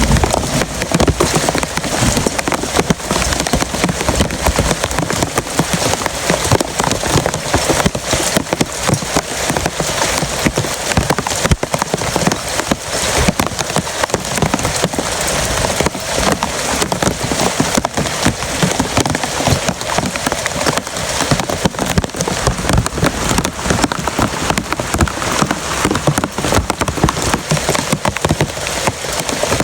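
Heavy rain pouring steadily, a dense patter of drops hitting a surface.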